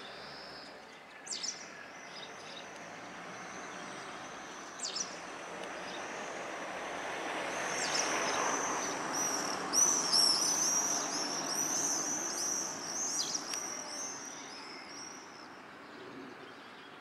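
Small birds chirping outdoors: single high chirps about a second in and again near five seconds, then a quick run of repeated high notes in the middle. Under them a broad rushing noise swells and fades, peaking near the middle.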